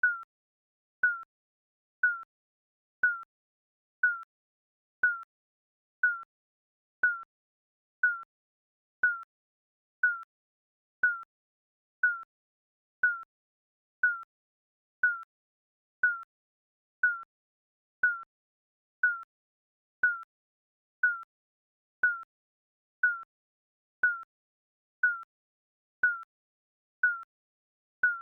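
Digital countdown timer beep, a short high electronic tone repeating exactly once a second, each dipping slightly in pitch as it fades, with silence between.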